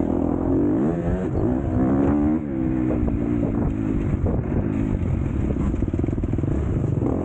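MX2 motocross bike engine under hard throttle, its pitch climbing and falling as the rider accelerates and shifts. The throttle snaps shut about two and a half seconds in, then the engine opens up again.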